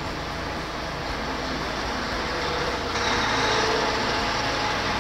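Car engine idling, heard from inside the cabin, with a steady rumble. About three seconds in, a louder rushing noise with a faint whine comes in.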